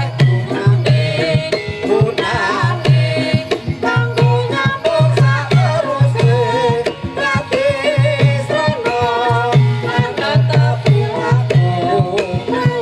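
Javanese gamelan music for a jaranan dance, led by kendang hand drums playing quick rhythmic strokes, with a wavering melody line above and a low note pulsing steadily underneath.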